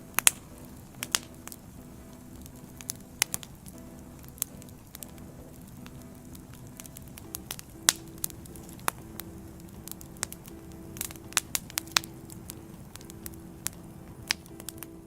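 Wood fire crackling, with irregular sharp pops a few times a second over a soft steady hiss and faint low tones underneath.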